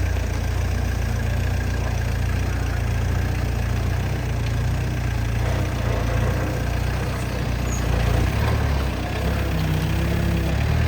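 Truck engine running with a steady low drone, its note shifting about eight seconds in.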